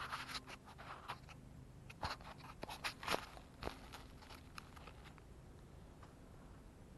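A scatter of faint crunches and clicks, most of them in the first four seconds, then little more than background hiss; no engine is running.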